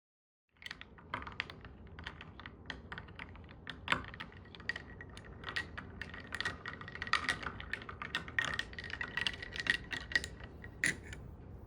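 A run of quick, irregular light clicks and taps, starting about half a second in and stopping just before the end, with a faint steady high tone behind them for a while.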